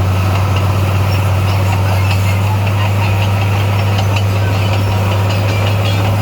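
Heavy diesel engine of earthmoving equipment running at a steady, even speed with a deep, constant hum, and faint scattered clicks and clanks over it.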